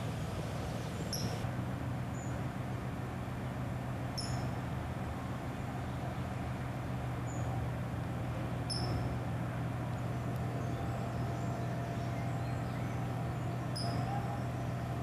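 A bird's short, high chirp repeats every few seconds over a steady low hum.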